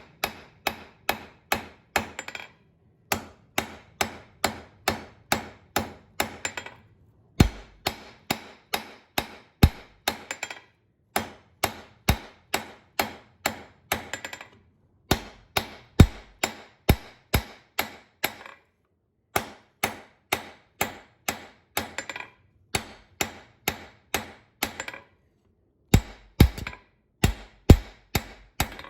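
Blacksmith's hammer striking hot iron bar stock on an anvil while forging a twisting wrench. The sharp, ringing blows come about three a second, in runs of a few seconds with short pauses between them, and some blows land heavier than others.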